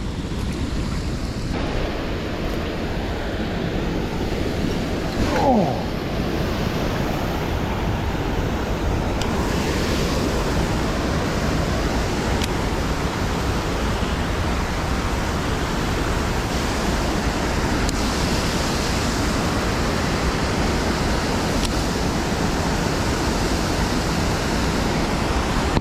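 Steady, loud rush of fast-flowing water pouring out at a fishing spot, an even unbroken roar. A man's short "Oh" cuts through it about five seconds in.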